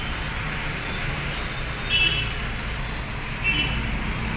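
A moving car's engine and road noise, heard as a steady low rumble inside the cabin, with brief horn toots from surrounding traffic about two seconds in and again a little later.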